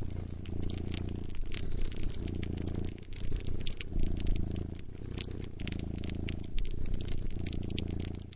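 A cat purring close up in a steady rhythm, rising and falling with each breath about once a second. Over it runs the sharp, irregular snapping and crackling of a wood fire.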